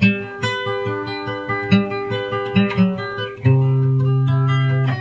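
Instrumental intro of a country-folk song: acoustic guitar picking notes, joined about three and a half seconds in by a long held low note.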